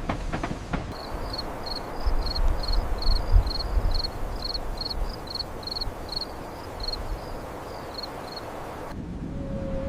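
A cricket chirping in an even, repeated rhythm of about three short high chirps a second, over a steady outdoor hiss with some low rumble. It cuts off abruptly near the end.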